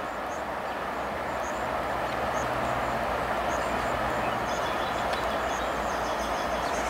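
A train approaching slowly: a steady rumble that grows gradually louder.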